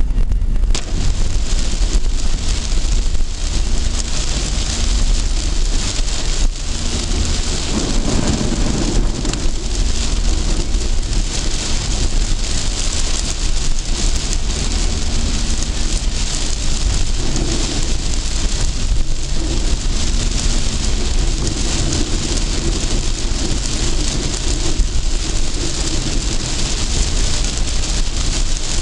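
Heavy rain pelting a moving car, a steady dense hiss, with the car's low engine and road rumble underneath.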